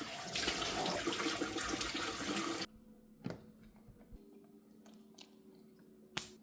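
Tap water running into a sink while pencil grips are washed, shut off suddenly about two and a half seconds in. Then a few small clicks and a sharper knock near the end.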